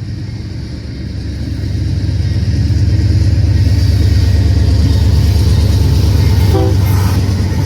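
Union Pacific freight train's diesel locomotives rumbling as they pull through, the low engine rumble growing louder about two seconds in and then holding steady.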